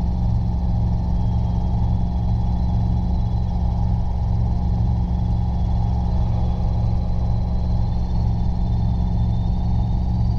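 Robinson R22 helicopter cabin noise under power: engine and rotors running steadily, a loud low drone with an even pulsing beat.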